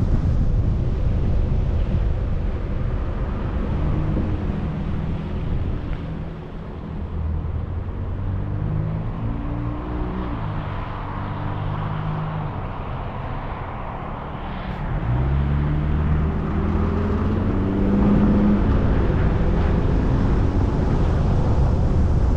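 Car driving, with a steady low rumble of road and wind noise. The rumble eases off from about six seconds in, leaving the engine hum audible, then the engine revs up at about fifteen seconds and the road noise builds again as the car speeds up.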